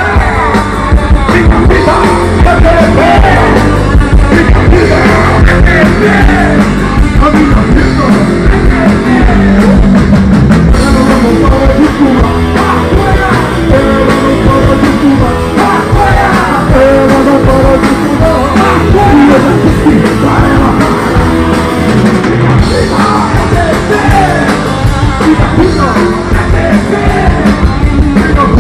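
Live rock band playing loudly, with a singer, electric guitars and a drum kit.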